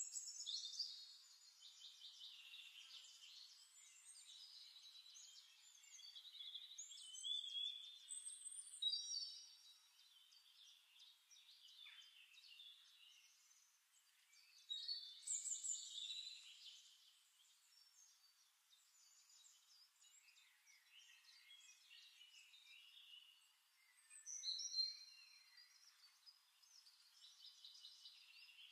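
Faint birdsong: several birds chirping, whistling and trilling in overlapping phrases, with louder bursts of song now and then and no low sounds underneath.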